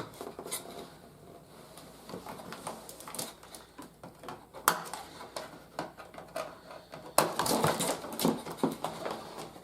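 Plastic toy parts and packaging being handled: scattered clicks and light rustling, a sharp click about five seconds in, and a burst of crinkling a little after seven seconds.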